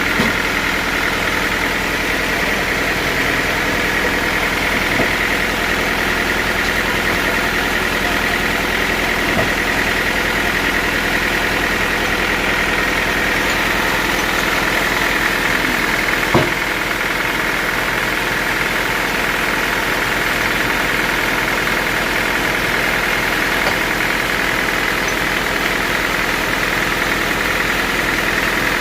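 Sawmill machinery running steadily with an even engine-like hum, and a few short knocks, the clearest about sixteen seconds in.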